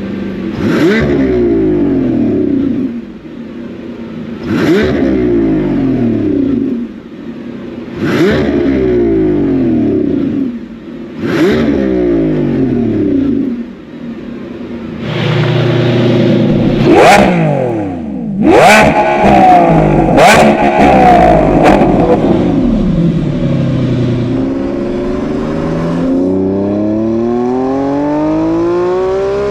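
Lamborghini Revuelto's hybrid V12 through a non-valved X-pipe cat-back exhaust, blipped four times; each rev shoots up with a sharp crack and falls back over a couple of seconds. Then comes a longer, louder stretch of hard revs punctuated by sharp cracks, and near the end a steady climb in revs.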